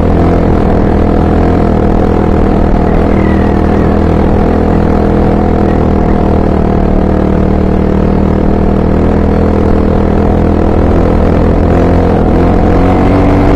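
Honda XR 250 Tornado trail bike's single-cylinder four-stroke engine running loud and steady under way, its pitch rising near the end as it speeds up.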